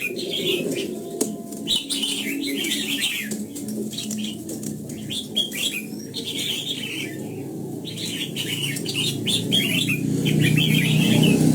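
Red-whiskered bulbuls singing: a run of quick, chirping phrases with short clicks scattered among them, and a lower sound that swells near the end.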